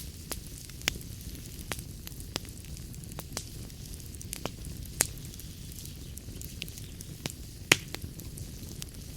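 Wood fire in a fireplace crackling: irregular sharp pops and snaps over a low, steady rumble, with two louder pops about five and nearly eight seconds in.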